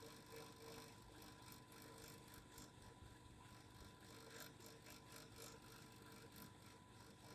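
Faint steady vibrating hum with a light, irregular rattling tick over it.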